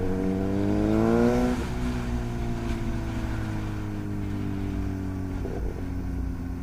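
Suzuki GSX-S1000's inline-four engine through a Yoshimura R11 straight-pipe exhaust, rising in pitch under acceleration for about a second and a half, then dropping as the throttle eases and falling slowly as the bike slows.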